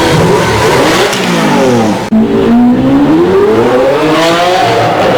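A vehicle engine revving hard: its pitch falls for about two seconds, breaks off briefly, then climbs steadily again as it accelerates.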